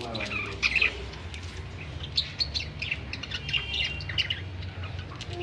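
Several small caged pet birds chirping and twittering in many short, quick calls, with one brief held whistle in the middle, over a steady low hum.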